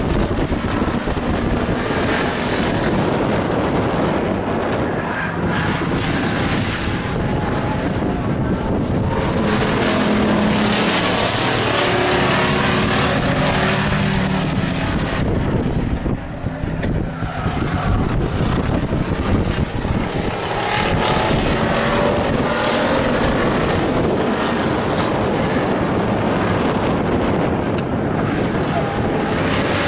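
Engines of stock race trucks running laps of an oval track, a continuous loud drone that swells and fades as the field passes, loudest about a third of the way in.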